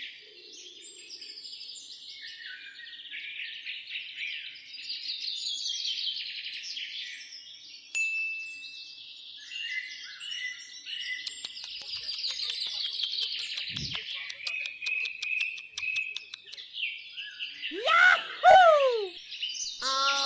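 Several birds chirping and singing together, with trills and steady whistled notes. A few louder falling calls come near the end.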